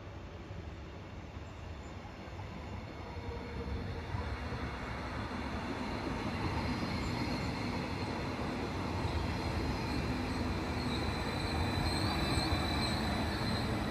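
Train approaching on the track, growing steadily louder, with a high wavering wheel squeal in the last few seconds.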